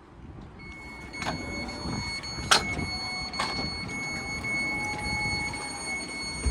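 A steady high electronic tone from a Caltrain car's door alert sounds for about six seconds and cuts off suddenly. A few sharp knocks come through it, the loudest about two and a half seconds in.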